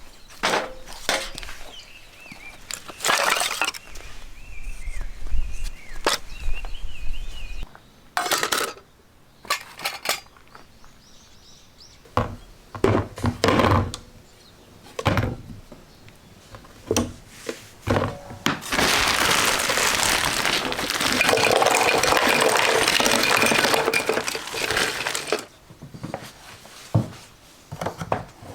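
Dishes and utensils clinking and knocking in a string of short, separate impacts, with a steady hiss lasting several seconds past the middle.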